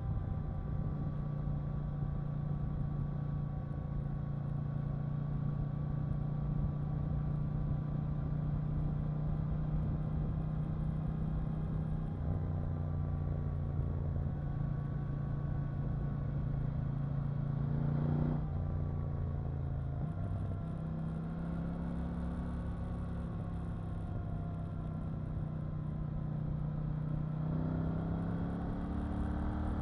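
KTM 890 Duke R's parallel-twin engine running under way, mostly at a steady pitch. About eighteen seconds in the note climbs, breaks off and settles lower, and near the end it rises again.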